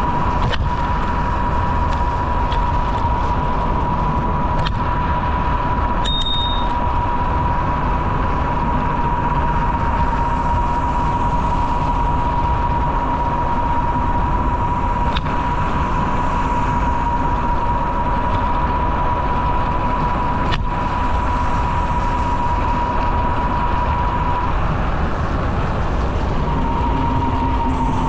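Wind rushing over the microphone of a camera riding along on a moving bicycle, with a steady high-pitched whine throughout that drops out briefly near the end.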